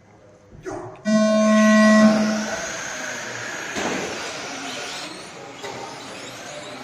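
Electronic buzzer tone of a race timing system sounding once for about a second and a half, followed by a fading wash of noise.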